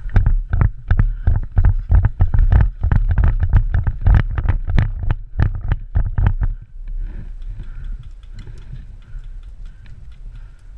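Quick, regular footfalls, about three or four a second, each thudding on the body-worn microphone: a player running. About two-thirds of the way through they drop to quieter, lighter steps and gear ticks.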